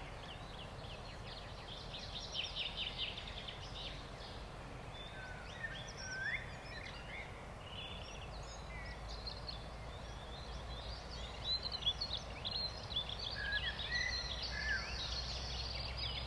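Several songbirds chirping and singing in quick, overlapping phrases over a steady background hiss and low hum; the birdsong grows busier near the end.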